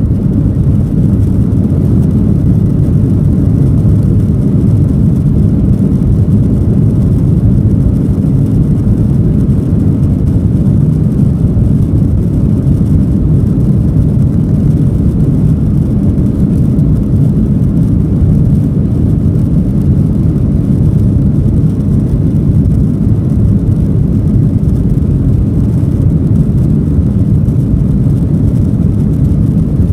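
Steady, loud rumble of a Boeing 737-800's CFM56 engines and airflow, heard from inside the passenger cabin.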